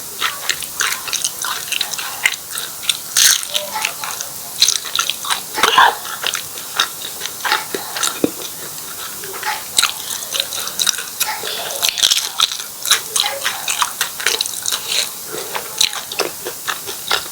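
Close-miked chewing and biting of martabak telur, a pan-fried stuffed pancake with egg, corned beef and mozzarella: a steady run of short mouth clicks and crackles.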